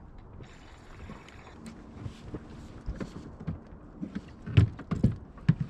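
Sounds of a small inflatable boat drifting on the sea: low water and wind noise with a few sharp knocks on the boat, the loudest about four and a half seconds in.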